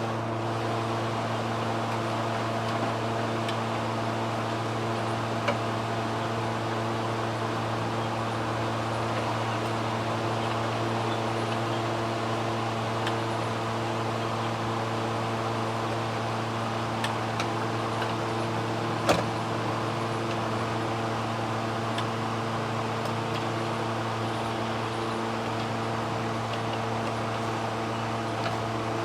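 Toyota Corolla GLi engine idling with a steady, even hum, with a few light clicks over it, one about five seconds in and a sharper one about nineteen seconds in.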